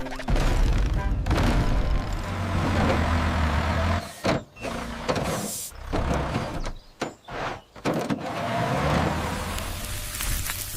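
Heavy construction-vehicle sound effects: an engine rumbling and a motor whirring, stopping and starting several times, over background music.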